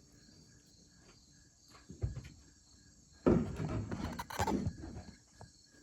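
Insects chirping steadily in the background, with a single knock about two seconds in and then a stretch of loud, irregular rustling and knocking close to the microphone, the sound of the recording setup being handled.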